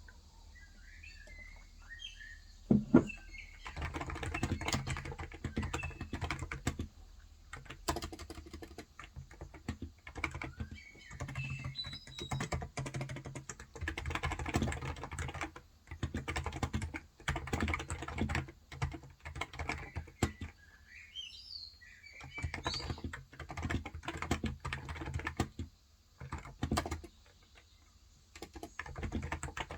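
Typing on a Cox Endeavor contactless (electrostatic capacitive) tenkeyless keyboard with 35 g switches, in runs of keystrokes broken by short pauses. A single loud knock comes about three seconds in, and a bird chirps faintly near the start and again about two-thirds of the way through.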